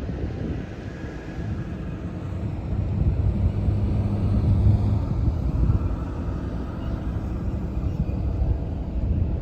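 UH-60 Black Hawk helicopter running with a low rumble from its rotor and turbines. It grows louder about three seconds in, is loudest around the middle, then eases a little.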